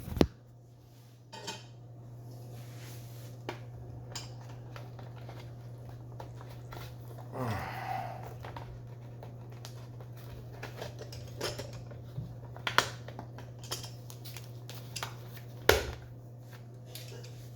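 Hard plastic and metal parts of a Bodum burr coffee grinder being handled and twisted into place: scattered clicks and knocks, a scraping rub about halfway through, and a louder knock near the end, over a steady low hum. The grinder's motor is not running.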